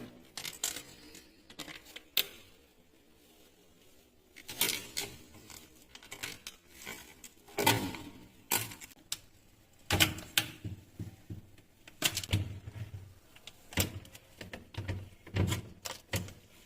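Protective plastic being peeled and pulled off a new refrigerator: irregular crinkling and rustling of the plastic film, with sharp clicks and taps against the fridge's surfaces.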